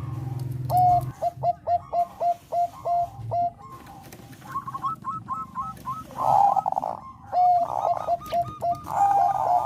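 Zebra dove (Thai 'perkutut bangkok' strain) singing: a rapid series of short, clipped coos, each sliding up at the start, then a quicker run of higher notes. A rough, buzzy burst comes about six seconds in, and more coos follow, ending in a longer held note.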